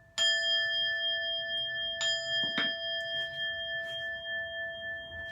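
A Buddhist bowl bell struck once about a fraction of a second in, ringing on with a steady bright tone that slowly fades. Two light knocks come in the middle while it rings.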